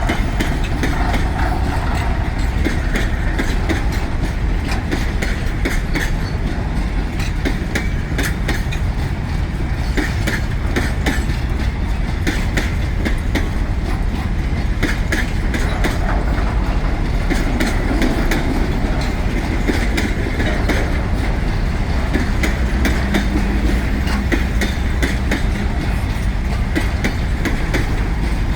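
Long freight train of container flats and grain hoppers rolling steadily past, its wheels clacking in an irregular run of sharp clicks over the rail joints.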